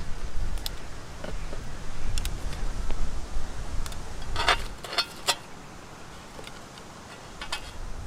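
Wind buffeting the microphone in gusts, with a quick run of sharp clicks or clinks about halfway through and one more near the end.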